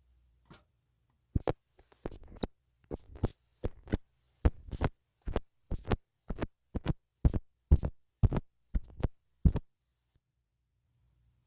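Close-miked ASMR trigger sounds on a smartphone microphone: a run of about twenty soft, regular strokes, roughly two a second, each a thud with a crackly top, stopping near the end.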